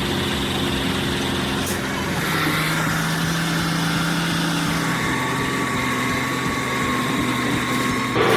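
A heavy truck's engine running steadily, its pitch shifting a couple of times, with a thin whine above it in the second half.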